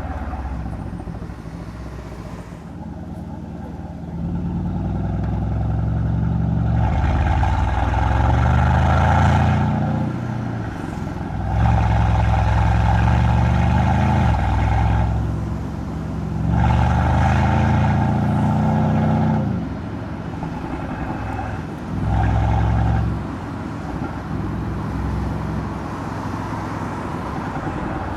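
Mercedes-AMG C63's M177 twin-turbo V8 exhaust under hard acceleration, the note climbing through the gears and dropping back at each upshift over three long pulls, with a short burst of throttle near the end and steadier cruising between.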